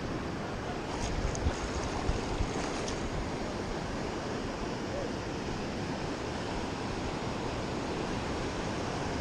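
Ocean surf washing onto a sandy beach, a steady rush of waves, with wind buffeting the microphone. A few faint clicks come between about one and three seconds in.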